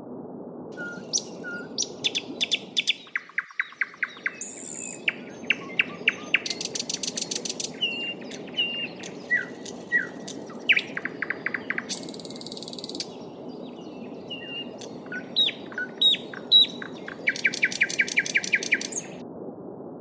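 Small songbirds chirping and singing over a steady murmur of a flowing stream: short whistled notes, quick trills and fast runs of repeated notes from several birds. The water sound drops out briefly about three seconds in.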